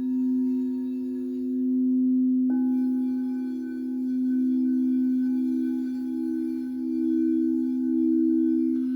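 Singing bowls ringing in long steady tones. About two and a half seconds in, another bowl is struck, adding a higher ring, and one of the low tones starts to pulse slowly.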